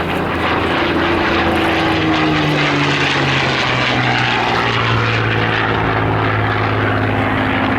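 Propeller-driven aircraft flying past, its engine note dropping in pitch about two to four seconds in as it passes, then holding steady.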